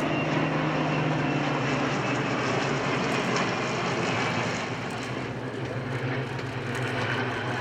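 Piston engine of a Second World War propeller warbird flying over, a steady drone that eases slightly past the middle and swells again near the end.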